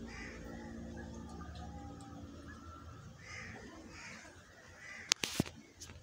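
Short, harsh bird calls, about five of them spaced a second or so apart, over a steady low hum that fades out in the first two seconds. A few sharp clicks about five seconds in.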